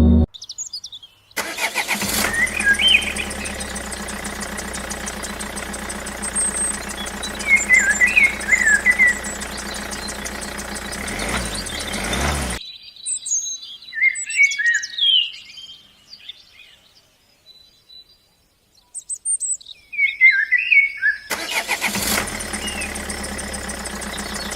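Birds chirping over a steady machine noise with a low hum. The machine noise cuts off abruptly about halfway, leaving only the birds for several seconds, then starts again near the end.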